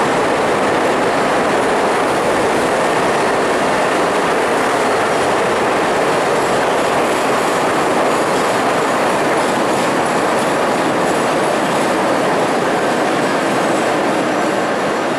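CTA 'L' rapid transit train running past on the elevated Loop tracks: a steady, loud noise of its wheels on the rails that eases slightly near the end as the train pulls away.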